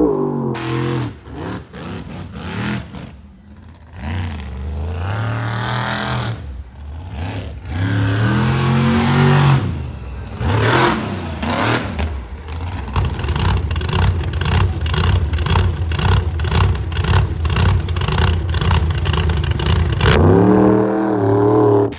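Monster truck engine revving hard, its pitch climbing and falling several times, then held at high revs for several seconds before letting off near the end.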